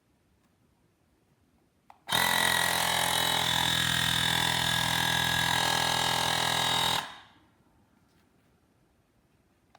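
A small click, then a Woowind AP2-P portable electric tyre inflator's compressor starting abruptly and running steadily for about five seconds before shutting off and winding down.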